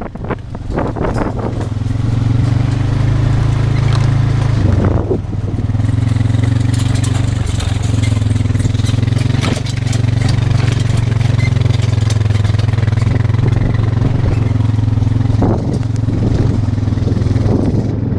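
Vehicle engine running at a steady speed while driving, with knocks and rattles over the hum.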